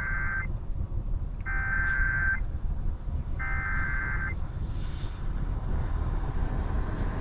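NOAA Weather Radio alert header (SAME): three identical bursts of warbling data tone, each about a second long and a second apart, over a steady low rumble. It is the coded header that precedes a National Weather Service warning broadcast.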